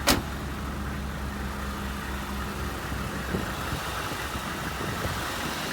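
A 1988 Oldsmobile Cutlass Ciera's engine idling steadily just after a cold start, having needed some cranking after sitting a long while. A single sharp click comes right at the start, and a smaller knock about three seconds in.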